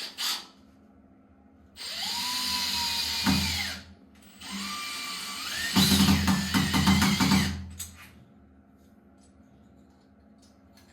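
Power drill run in two bursts, its whine rising in pitch as it spins up and then holding steady; the second, longer burst turns into a rapid rattling near its end.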